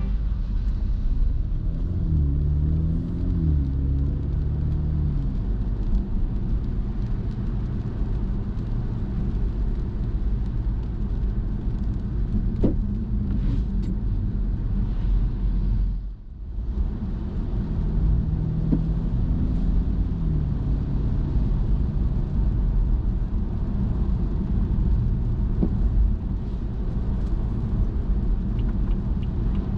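Car driving, heard from the cabin: a steady low road and engine rumble. The engine note rises as the car speeds up about two seconds in and again around eighteen seconds. The sound drops away briefly around sixteen seconds.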